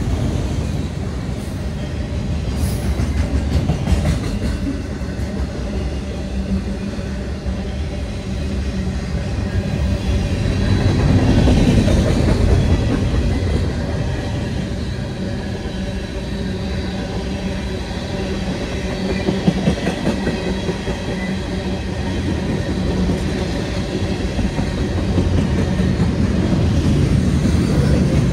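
Cars of a CN mixed freight train rolling past close by: a steady rumble and clatter of steel wheels on the rails. It swells for a couple of seconds before the middle, and there is a single sharp bang about two-thirds of the way through.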